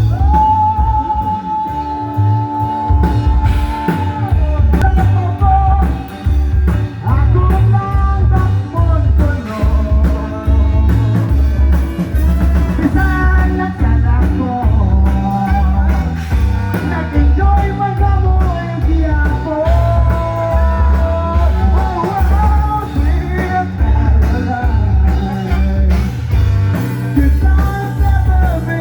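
Rock band playing a song with a singer, the voice holding long notes over a steady bass-and-drum beat.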